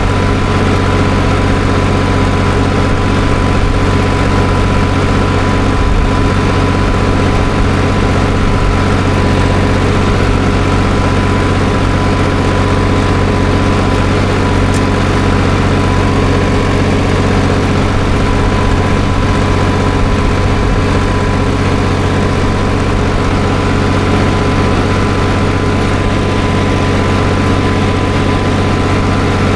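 Farm tractor engine running steadily at a constant speed, heard from the driver's seat.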